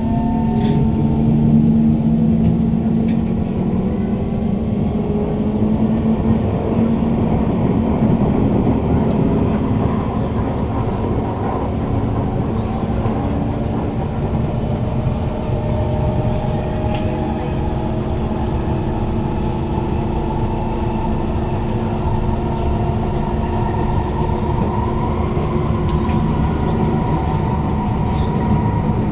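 Kawasaki Heavy Industries C151 train with GTO-VVVF traction equipment running between stations, heard from inside the carriage. A strong motor and inverter whine with several tones shifting slowly in pitch sits over a steady rumble of wheels on rail.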